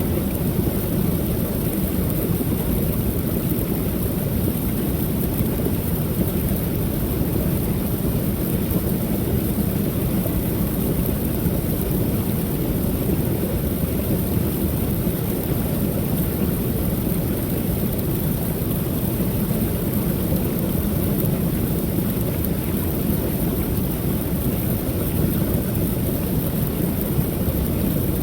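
Creek waterfall pouring steadily: a continuous low rush of falling water with no change in level.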